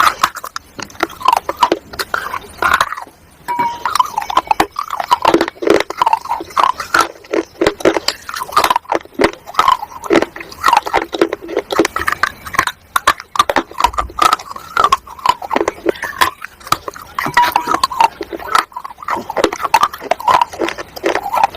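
Close-miked biting and chewing of roasted clay chunks: many irregular, sharp, dry crunches, with short mouth noises between them and a brief pause about three seconds in.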